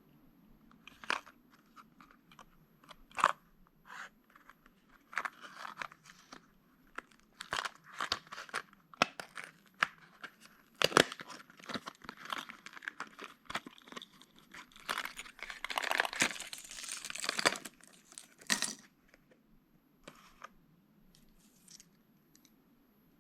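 A fishing-lure package being opened by hand: irregular crinkling, tearing and crackling of the packaging, busiest and loudest a little past the middle, then dying down to a few faint rustles near the end.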